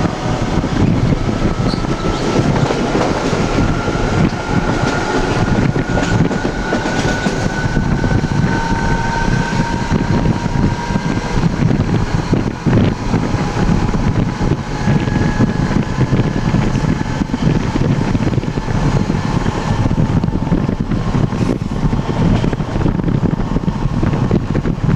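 NJ Transit commuter train running at speed, heard through the open window of the vestibule between cars: a steady loud rumble and rattle of wheels on rail. Faint high whines drift slowly upward over the first half, and a couple of sharp knocks stand out about six and thirteen seconds in.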